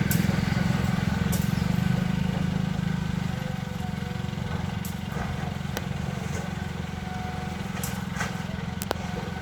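Caterpillar excavator's diesel engine running steadily, easing off slightly a few seconds in, with a few sharp clicks.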